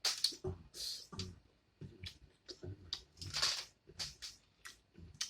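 Close mouth sounds of someone chewing food, with wet smacks and clicks coming about once or twice a second.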